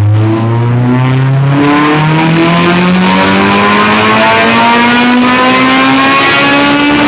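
Honda K20 inline-four engine in a stage 4 tuned Civic running a full-throttle pull on a chassis dynamometer, its note climbing smoothly and steadily in pitch as the revs rise under load.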